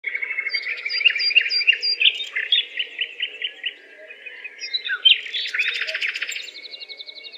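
Songbird singing: quick series of sharp, repeated chirping notes, with a dense rapid trill about two thirds of the way through.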